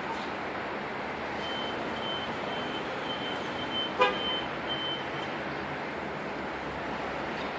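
Steady outdoor background noise, with a run of short high beeps over a few seconds and one short, sharp sound about four seconds in that is the loudest moment.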